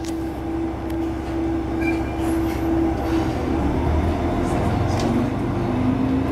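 Diesel railcar running on the Yuri Kogen Railway line: a steady engine drone over rail noise, with a held tone that fades about three seconds in and a lower one that comes in near the end.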